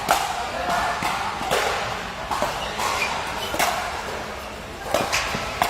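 Ball being struck and bouncing during a doubles rally on a court: about half a dozen sharp knocks at irregular intervals, roughly a second apart, over faint background voices.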